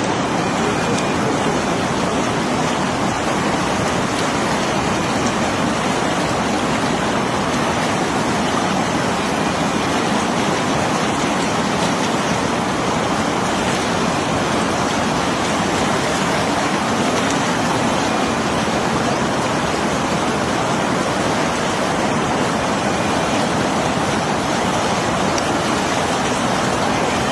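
Rushing water, a steady, unbroken hiss and rumble of flowing water.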